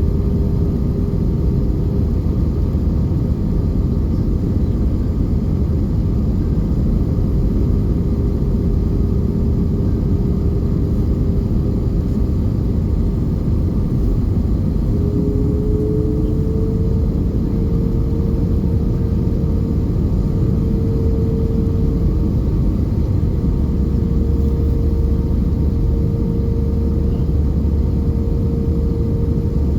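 Airbus A320 cabin noise in flight: a steady low rumble of the jet engines and airflow, with an engine hum that rises slightly in pitch about halfway through and then holds steady.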